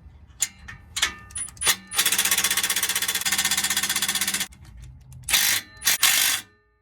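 Impact wrench hammering in one rapid burst of about two and a half seconds, most likely on the exhaust flange nuts. Short metallic knocks and clanks of tools and parts come before and after it.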